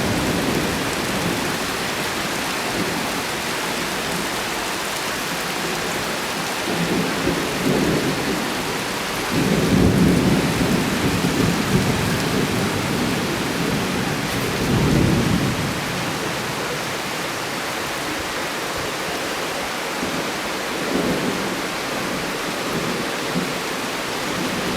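Steady heavy rain with several rolls of thunder rumbling over it, the loudest about ten seconds in, others about seven, fifteen and twenty-one seconds in.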